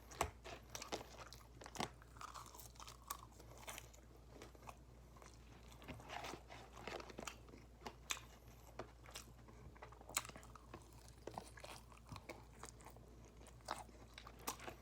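A person chewing a mouthful of loaded fries with brisket and melted cheese, close to the microphone: soft, irregular mouth clicks and smacks.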